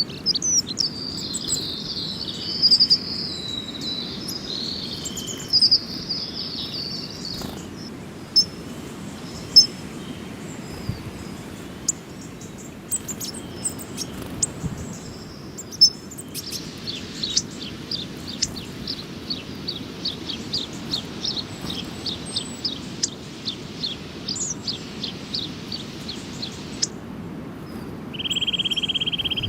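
Small songbirds chirping and singing: a twittering warble for the first several seconds, then a long run of quick repeated high notes, and a short buzzy note near the end, with scattered sharp clicks between the calls.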